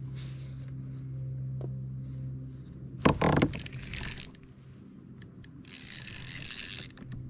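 Fishing reel being cranked to bring in a hooked crappie: scattered clicks, then about a second of whirring near the end. A loud thump comes about three seconds in.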